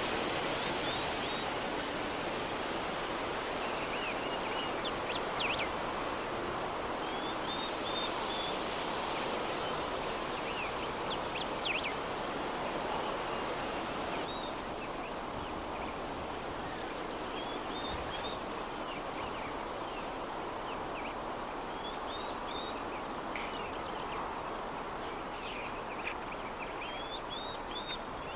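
Soft, steady breeze noise, with small birds chirping now and then in short high calls.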